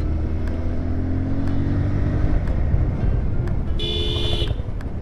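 Motorcycle engine running under way, with road and wind noise, its pitch rising gently in the first couple of seconds. A vehicle horn sounds briefly about four seconds in.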